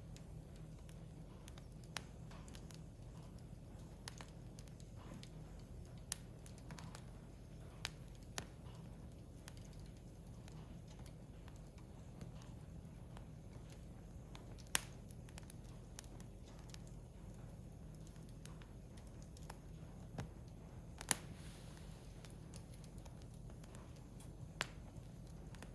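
Firewood burning in a Picogrill fire pit: scattered sharp pops and crackles a few seconds apart, the loudest about 15 seconds and 21 seconds in, over a faint steady low background.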